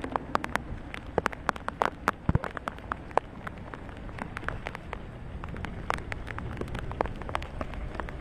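Rain falling, with many drops landing close to the microphone as sharp, irregular ticks over a steady hiss; the ticks are thickest in the first few seconds.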